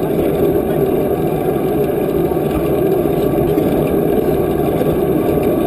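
Steady wind rumble on the microphone of a moving bicycle, a loud, even low noise with no breaks.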